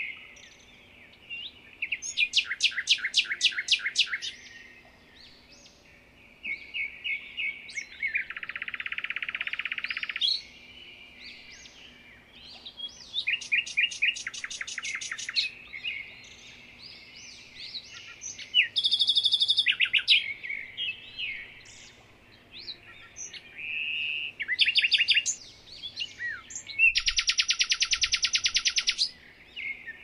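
Several songbirds singing and chirping together: whistled phrases broken by fast trills of rapidly repeated notes, with the longest and loudest trill near the end.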